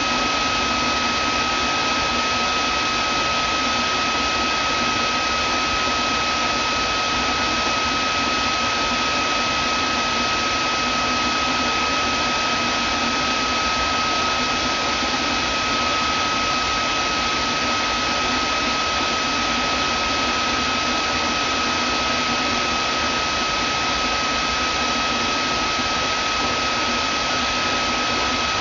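Vacuum cleaner running steadily, a constant rushing hiss with a steady whine on top.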